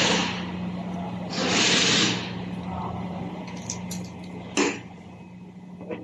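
Two short hissing blasts from a pressurised nozzle, the second about a second and a half in, over a steady low hum, followed by light metallic clinks and a sharp click near the middle.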